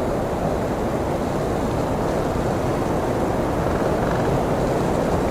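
Blizzard wind blowing steadily: an even rush of noise with a low rumble beneath it.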